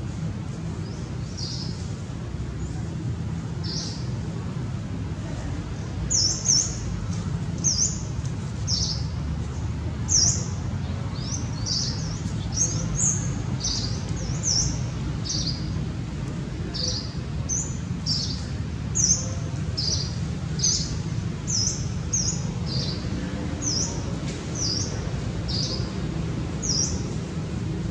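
A bird calling over and over with short, high chirps that slide downward, about one or two a second, louder from about six seconds in, over a steady low rumble.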